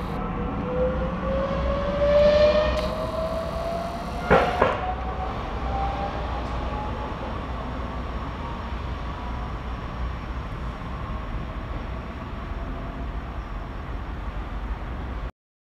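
Trenitalia Minuetto multiple unit accelerating away: a motor whine rising steadily in pitch over the first several seconds over a steady rumble, with two sharp knocks a little over four seconds in. The sound cuts off abruptly near the end.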